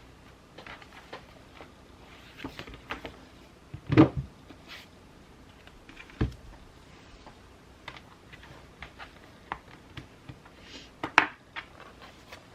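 Scattered taps, clicks and light knocks of journaling supplies being handled and set down on a desk, with a louder thump about four seconds in, another about six seconds in, and a sharp knock near the end.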